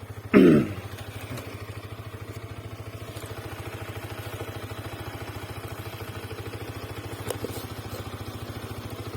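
Motorcycle engine running steadily with an even pulsing beat, no revving. About half a second in there is a brief vocal sound.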